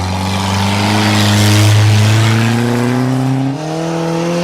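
Car engine accelerating hard, its pitch climbing steadily, with a brief drop in level and a change in the engine note about three and a half seconds in, over rushing road noise.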